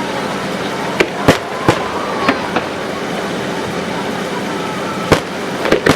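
Fireworks bursting: a run of sharp bangs between one and three seconds in, and another few near the end, over a steady background of crowd noise.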